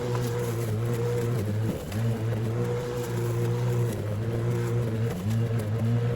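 Battery-powered lawn mower running while mowing grass: a steady electric hum from the spinning blade, dipping briefly about two, four and five seconds in as the grass loads it.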